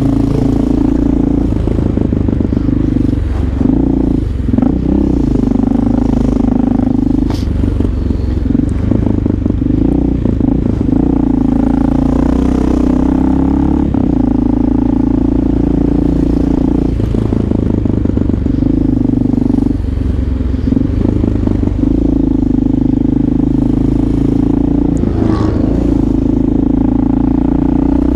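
Motorcycle engine running while riding in traffic, with a steady note that breaks and shifts in pitch several times as the throttle changes.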